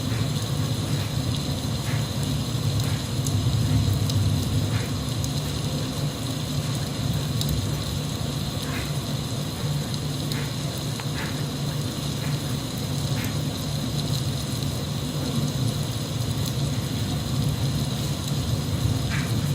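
Steady rain sound, an even rush strongest low down, with scattered short ticks of drops.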